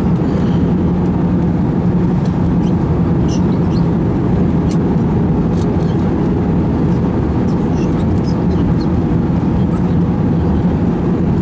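Steady cabin noise of an Airbus A320 in flight: an even roar of engines and airflow with a low hum underneath.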